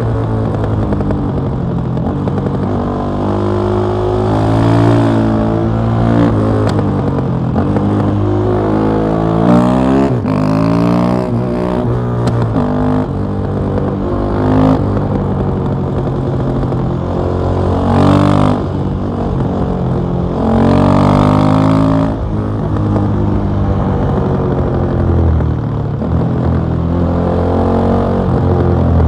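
KTM 660 SMC's single-cylinder four-stroke engine running through an Akrapovic exhaust under riding load, its pitch climbing under throttle and dropping back many times as the bike accelerates and shifts.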